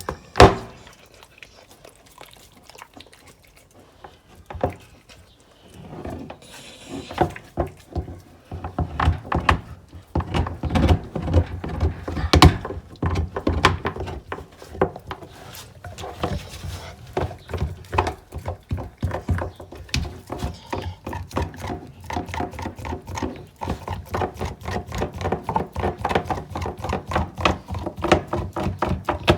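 American Bully dog crunching and gnawing on a raw deer bone: a sharp crack right at the start, scattered cracks for several seconds, then a dense run of crunches from about eight seconds in.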